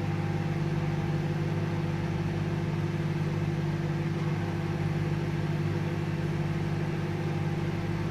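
Microwave oven running with a steady electrical hum and whir.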